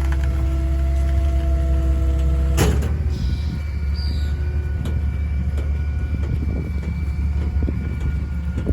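Kenworth rear-loader garbage truck with a Heil body running its hydraulic packer: a steady low engine rumble under a hydraulic whine, with a single clank about two and a half seconds in, after which the whine shifts pitch as the packer moves to its next stroke.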